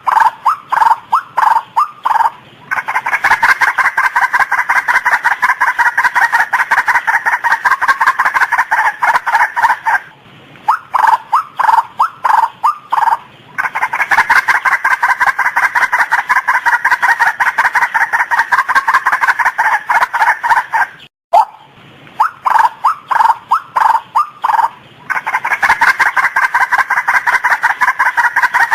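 Female white-breasted waterhen calling: a phrase that opens with a few separate stuttering notes and runs into a long stretch of fast, rapidly repeated notes. The phrase repeats about every ten seconds, three times.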